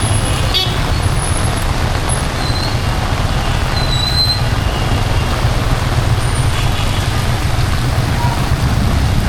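Steady city street traffic in heavy rain: a deep rumble of passing vehicles under a constant hiss. There is a click about half a second in and a few short, high-pitched squeaks.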